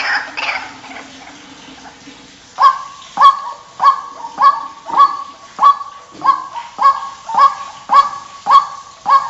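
White-breasted waterhen (ruak-ruak) calling. A tangle of calls fades in the first half second. After a short lull, a series of sharp, evenly spaced honking notes starts about two and a half seconds in, nearly two a second.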